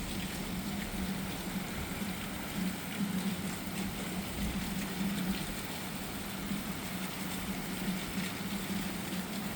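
Steady hiss of rain from an approaching thunderstorm, with a steady low hum underneath; no thunder.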